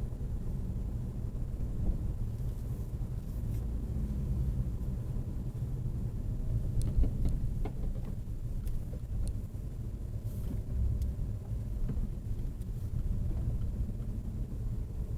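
Steady low rumble of car engines and traffic, with faint pitch glides from engines and a few light clicks.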